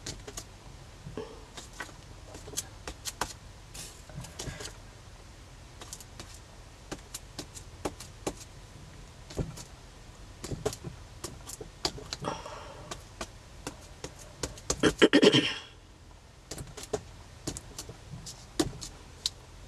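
Craft supplies being handled on a work table: scattered light taps and clicks, a brief rustle about twelve seconds in, and a louder burst of rustling clatter about fifteen seconds in.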